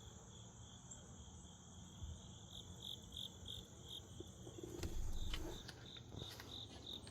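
Crickets chirping faintly, short high chirps in an uneven run, with a low rumble of handling noise about five seconds in.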